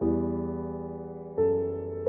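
Slow, soft piano music: a chord struck at the start and another about a second and a half in, each ringing and fading away.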